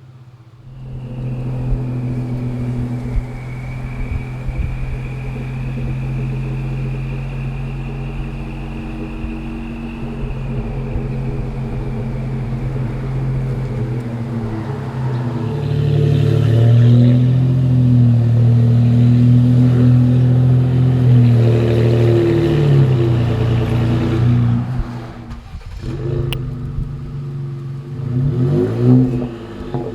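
Ford F-150's 2.7L twin-turbo EcoBoost V6, fitted with aftermarket downpipes and a cat-back exhaust, running with a thin high turbo whistle over the exhaust note. About halfway through it grows louder under throttle, then it drops off briefly and revs up again near the end.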